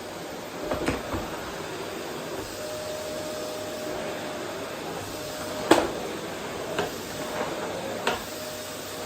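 Vacuum cleaner running steadily while vacuuming a wooden floor, a constant hum with a faint steady tone. Several sharp knocks sound over it, the loudest a little past halfway.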